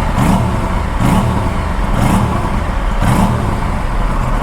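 Aprilia RS457's 457 cc parallel-twin engine idling, with four short throttle blips about a second apart, each rev rising and falling back to idle, to show off its exhaust note.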